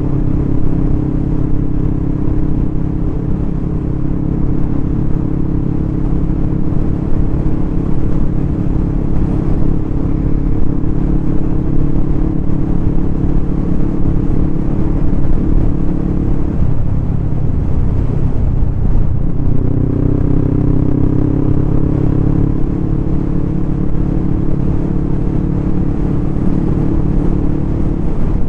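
Motorcycle engine running under way, with wind and road noise. A little over halfway through, the engine note drops away for a couple of seconds, then comes back and climbs slightly.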